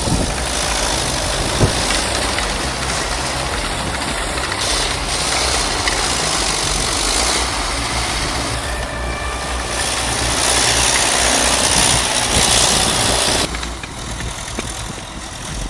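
Heavy earth-moving machine's diesel engine running with a steady low drone under loud, dense mechanical noise. The sound changes abruptly, the upper range dropping away, about 13 seconds in.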